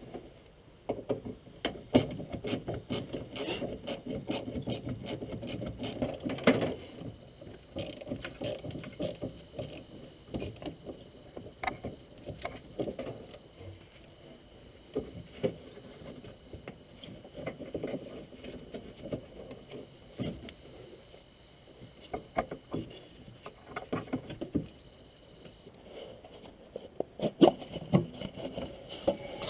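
Hand work on an engine bay: irregular knocks, clicks and rubbing from tools and parts being handled. It is busiest in the first several seconds, sparse in the middle, and there is a cluster of sharper knocks near the end.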